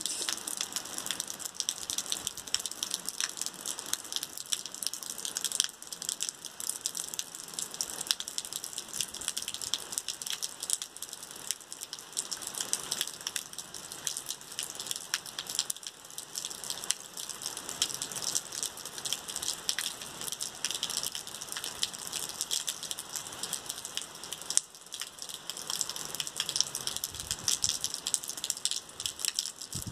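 Steady rain falling: a dense patter of drops over an even hiss.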